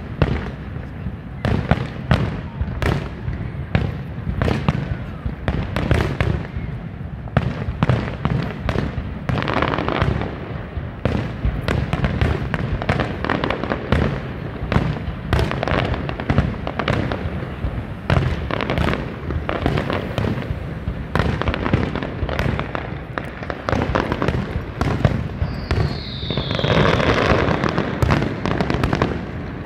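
Aerial fireworks shells bursting in rapid, near-continuous booms and crackles: the finale of the display. Near the end a falling whistle sounds over the bursts.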